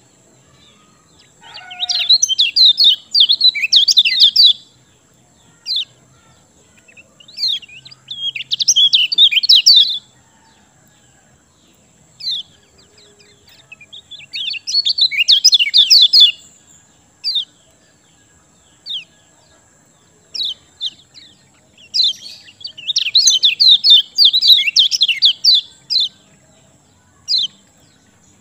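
Kecial kuning songbird singing in four bursts of rapid high chattering notes, each lasting two to four seconds, with single short high call notes in between. This is a bird in full, vigorous song (gacor), the kind of recording used to prompt quiet birds of its kind to sing.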